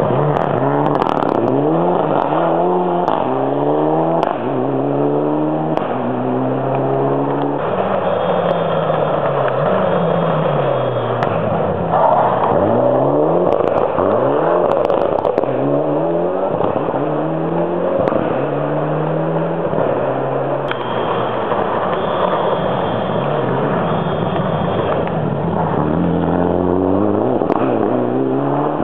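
Racing car engine revving hard while drifting, its pitch climbing and dropping over and over as the throttle is worked.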